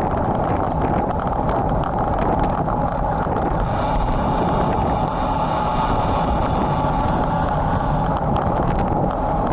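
Steady wind buffeting the built-in microphone of a bicycle-mounted action camera while riding in strong wind and rain, with road noise underneath. A brighter hiss swells from about four seconds in and fades about four seconds later.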